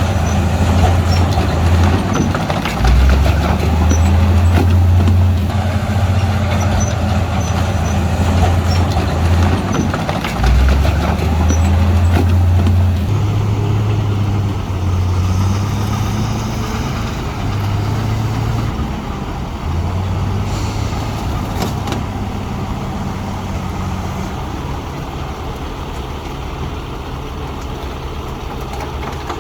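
Heavy diesel earthmoving machinery running under load, its engine speed rising and falling several times over a rough, noisy clatter. It eases off and runs quieter over the last third.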